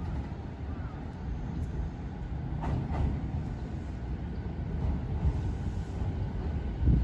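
Electric commuter train running through a station, a steady low rumble of wheels on rail. There is a brief sharp high noise about three seconds in and a heavy thump just before the end.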